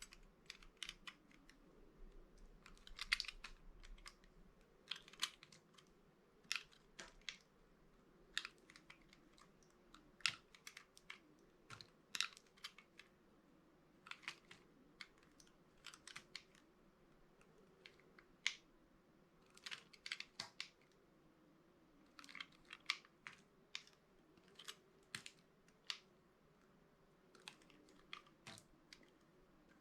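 Knife cutting dry bar soap: a string of short, crisp crunches and clicks, irregularly spaced, about one or two a second and sometimes in quick clusters.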